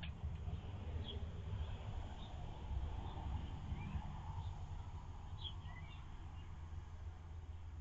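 Quiet outdoor ambience: a steady low hum with a few faint, short bird chirps scattered through it.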